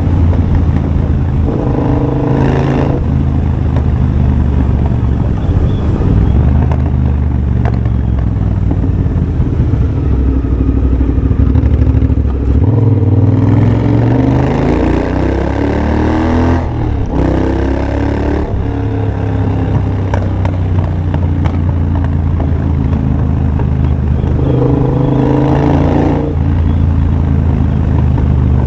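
2023 Triumph Bobber's 1200 cc parallel-twin engine running through a de-catted Tec X-pipe and a Motone shorty exhaust while riding. About halfway through, the revs climb steadily for a few seconds, then briefly cut out, as at a gear change, before it settles back to a steady pace.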